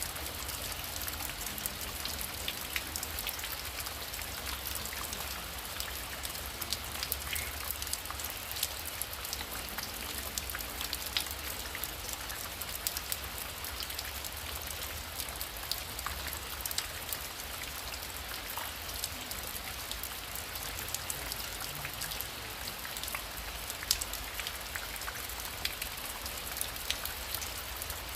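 Heavy rain falling steadily, with many sharp individual drop taps heard through the hiss, a few of them louder.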